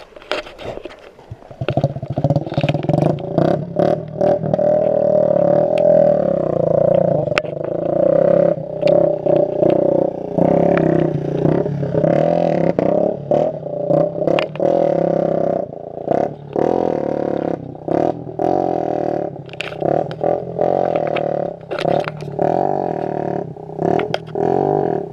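Small motorcycle engine running hard at high revs, its exhaust giving a loud steady drone that wavers slightly in pitch, with frequent clicks and pops over it.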